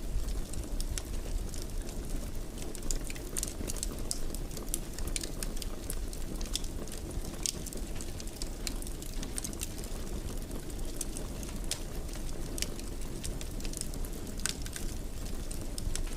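Wood fire in a fireplace burning steadily, a low rumble with frequent small crackles and pops scattered irregularly throughout.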